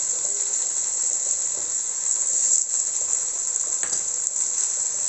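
Potatoes, onion and mushroom frying in oil in a metal kadai, a steady sizzle, with ginger-garlic paste just added on top. A single light click about four seconds in.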